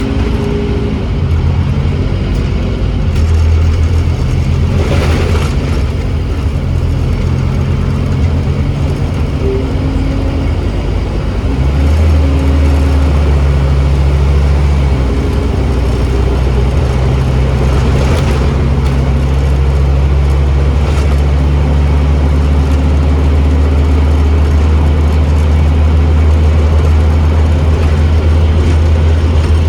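Scania N270UD double-decker bus engine, a five-cylinder diesel, pulling under load; about twelve seconds in, the automatic gearbox kicks down and the engine revs up and holds louder and steadier under full throttle.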